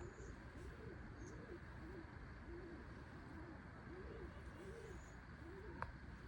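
A bird making a run of about ten soft, low coos, each note rising and then falling in pitch, with a single sharp click near the end.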